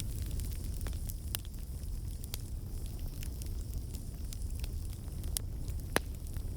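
Campfire burning: a steady low rumble of the flames with frequent irregular crackles and pops of the wood, one sharper pop near the end.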